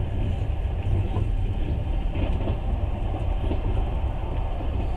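Steady low rumble of a moving passenger train, its wheels running on the track, heard from inside the carriage.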